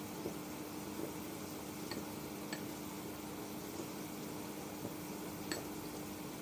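Chicken frying in hot oil: a steady sizzling hiss with a few faint pops and ticks, over a steady low hum.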